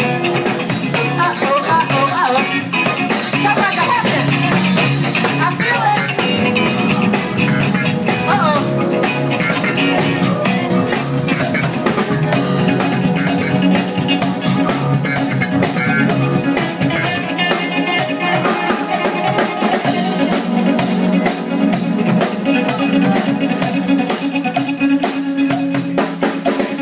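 Live funk band playing an instrumental passage with a steady beat.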